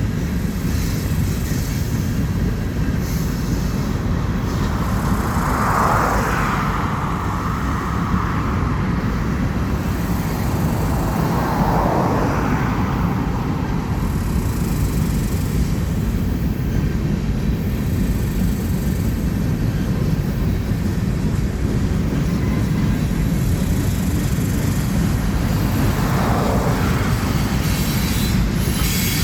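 Freight train cars rolling past: a steady, heavy rumble of wheels on rail, with three brief higher-pitched swells about six, twelve and twenty-six seconds in.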